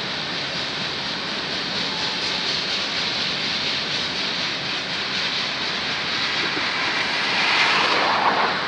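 Freight cars of a manifest train rolling past, a steady rumbling rush of steel wheels on rail, swelling louder for a moment near the end.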